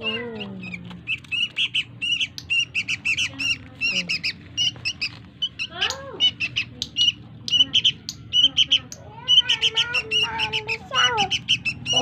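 A young caged bird repeatedly gives short, shrill begging calls, about three a second, while it is hand-fed.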